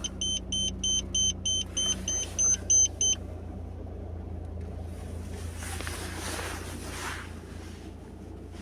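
VAZ 2114's engine idling on a cold start with a steady low hum. For the first three seconds a high-pitched warning buzzer beeps about four times a second, then stops; it is the car's door-open warning.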